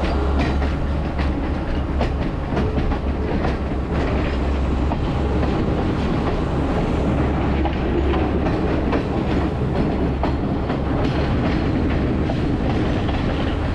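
Passenger train running steadily on the line, heard from aboard: a continuous low rumble with faint repeated clicks of the wheels over the rails.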